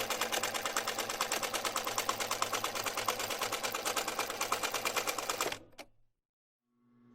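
A small machine running with a rapid, even clicking of about eight or nine strokes a second over a steady hum. It stops about five and a half seconds in.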